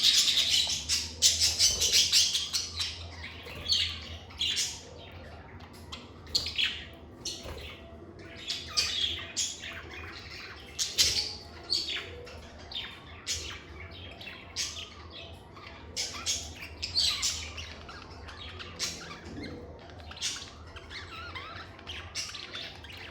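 Pet lovebirds chirping and squawking in quick, sharp, high-pitched calls, dense for the first three seconds or so and then coming in scattered runs.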